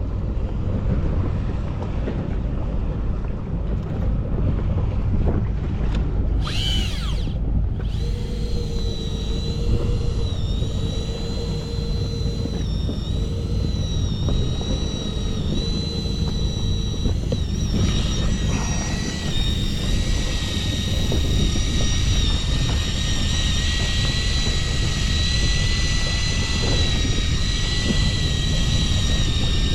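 Small outboard motor running steadily over a low rumble, with a steady high whine setting in about eight seconds in.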